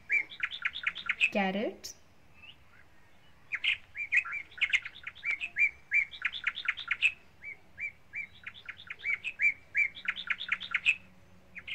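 A small bird chirping in quick runs of repeated high notes, some sweeping upward, in three runs with short pauses between them.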